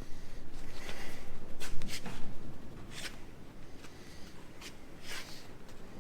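Scattered scrapes and clicks of parts and tools being handled during repair work, louder in the first two seconds and fainter afterwards.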